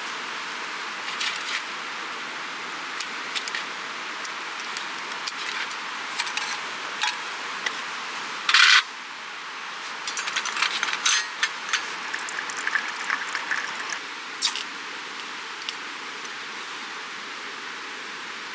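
Steady rushing hiss of a nearby creek, with scattered small clicks and knocks as camp stove gear is handled. One louder, brief rush comes about nine seconds in, and a flurry of clicks follows shortly after.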